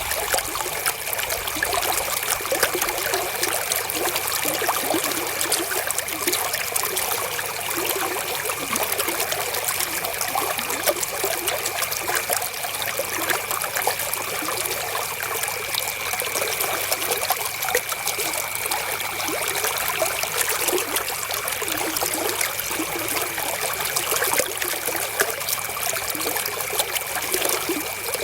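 River water flowing and trickling in a steady, unbroken rush of small splashes. A faint, steady high tone runs underneath.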